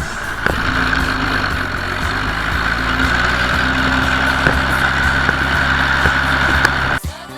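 Farm tractor engine running steadily with machinery whine and occasional knocks; it cuts off abruptly near the end as music with a beat starts.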